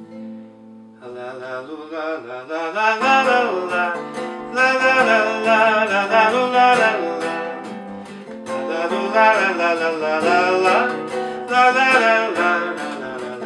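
Acoustic guitar playing the introduction to a bard song: a chord rings at the start, then the playing fills out and grows louder about three seconds in.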